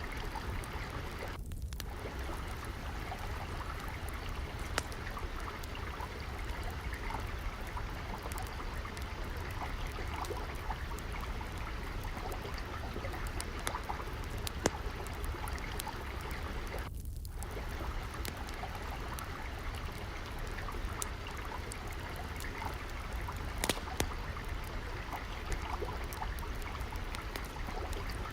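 Water trickling and flowing steadily, with the scattered pops and crackles of a wood fire burning over it; a few pops stand out louder.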